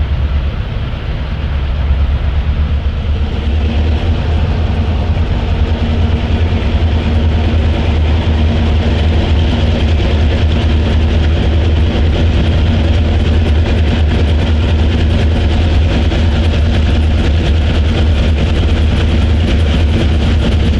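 Two EMD GP38-2 diesel locomotives running past at the head of a freight train, a steady low engine drone with the train rolling along the rails.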